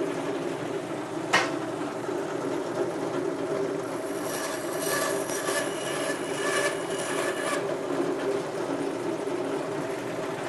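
General-purpose bandsaw running with its blade at about 1,000 feet per minute, with a sharp click about a second in. From about four seconds in, the blade cuts through a workpiece for a few seconds with a rasping sound, then goes back to running free.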